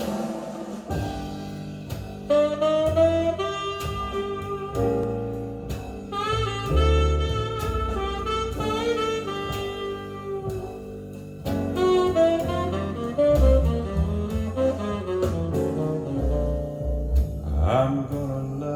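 Instrumental introduction of a jazz ballad recording: a melody instrument plays over a walking bass line and light drums, before the vocal comes in.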